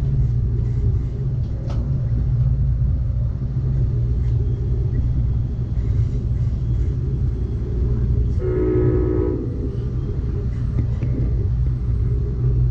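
Amtrak Cascades passenger train rumbling steadily along the rails, heard from inside the car. About two-thirds of the way through, a chord-like train horn blast sounds for just over a second.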